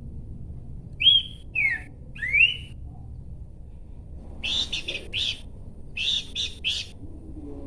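Horsfield's babbler (pelanduk semak) singing: three loud clear whistled notes, rising, falling, then rising. After them come two runs of quick chattering notes.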